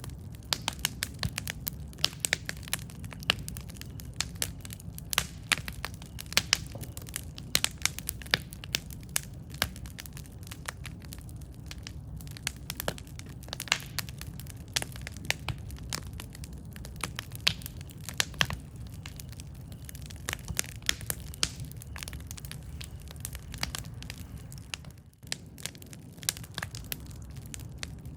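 Campfire burning, with many sharp crackles and pops from the wood over a steady low rumble of the flames. There is a brief lull in the crackling a little before the end.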